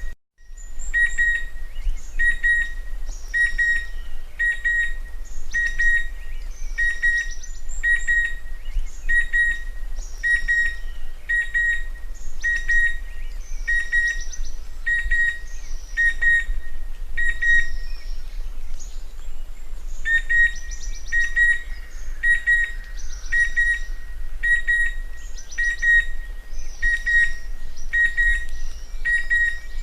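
Chestnut-winged cuckoo calling: a long, steady series of short, shrill whistled notes on one pitch, repeated at an even pace, with a brief pause about twenty seconds in.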